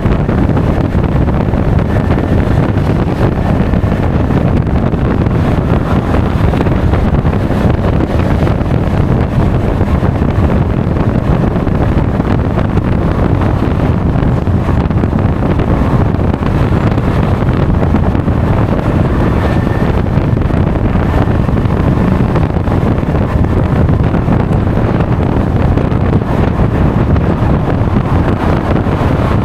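Wind buffeting the action camera's microphone while riding a Honda Forza 350 scooter at speed: a steady, loud rush, with the scooter's running and road noise beneath it.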